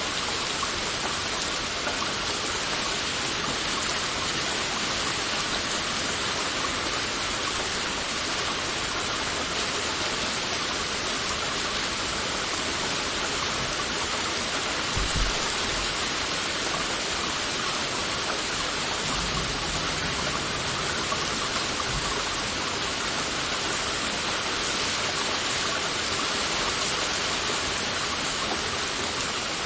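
Heavy rain falling steadily as an even, dense hiss, with a few faint low thumps around the middle.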